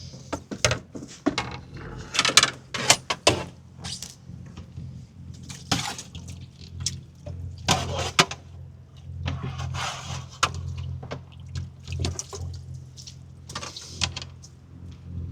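Water splashing and sloshing in short spells, with sharp clicks and knocks from handling gear, over a steady low motor hum.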